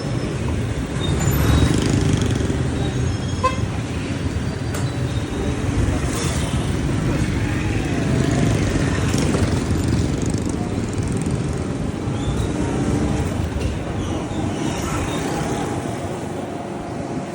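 Busy street traffic heard from a moving motorcycle: a steady mix of engine and road noise, with a few short horn toots from other vehicles.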